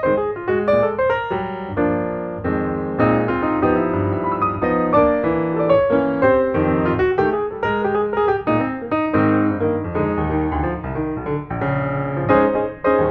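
Background piano music: a melody of quick, evenly played notes over chords.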